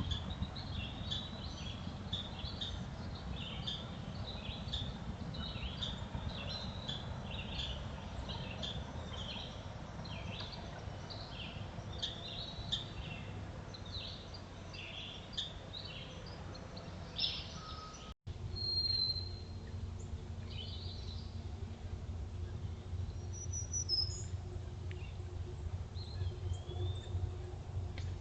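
Small birds chirping rapidly and repeatedly for about the first two-thirds. After a brief break only a few scattered whistled calls remain. A steady low rumble runs underneath.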